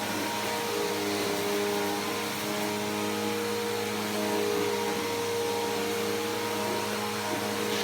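Bissell PowerForce Helix Turbo upright vacuum cleaner running steadily: an even motor hum and whine over the rush of suction air.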